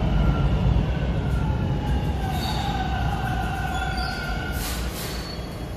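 TTC subway train rumbling as it slows, its wheels or brakes squealing in several high whining tones, with two short hisses of air about five seconds in.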